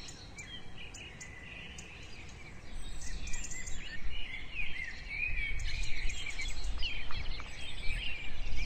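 Many small birds chirping and twittering, sparse at first and busier from about three seconds in, over a steady low rumble of outdoor ambience.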